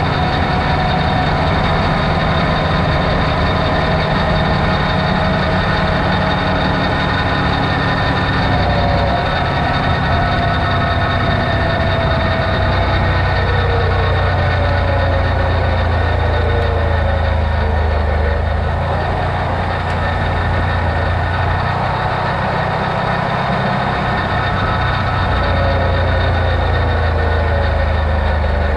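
Off-road vehicle's engine running steadily while driving, a low drone with a fainter whine that slowly rises and falls in pitch.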